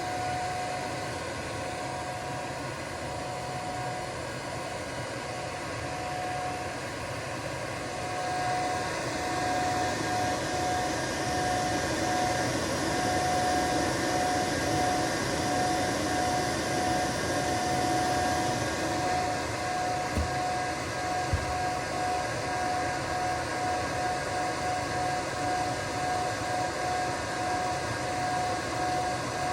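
Cooling fan of an ALLPOWERS R4000 portable power station running hard during solar pass-through charging: a steady rushing whir with a high whine, an abnormal noise from the fan over-running. It grows louder about a quarter of the way in, and there are two light clicks about two thirds through.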